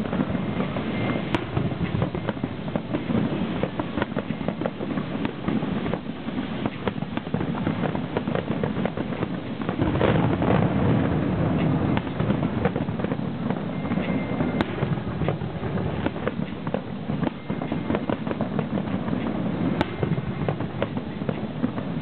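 Aerial fireworks shells bursting in a dense, continuous run of bangs and crackles, a little louder about ten seconds in.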